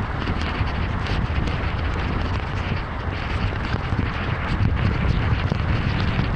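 Heavy rain on a moving car: a steady dense hiss of rain and wet road, a deep rumble underneath, and many small ticks of drops hitting.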